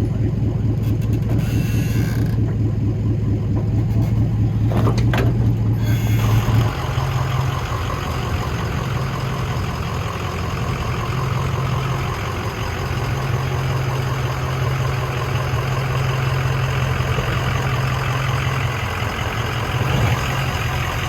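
Off-road vehicle engine running at low speed, a steady hum, while the vehicle crawls down a rocky trail section. About six seconds in the engine note changes and turns into a steady, noisier hum.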